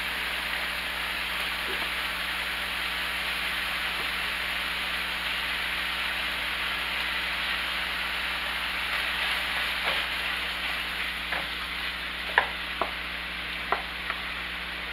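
Thinly shaved chicken sizzling steadily in oil in a nonstick frying pan. A few light clicks come near the end.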